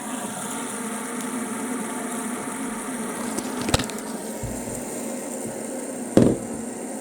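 Gold aluminium fidget spinner whirring steadily as it spins fast on its bearing after being blown up to speed with a hairdryer. Two sharp knocks break in, one a little past halfway and a louder one near the end.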